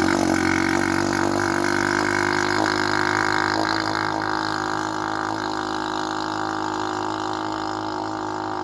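Chinese KXD 125 quad's 125 cc single-cylinder four-stroke engine idling with a steady drone, settling a little quieter about four seconds in.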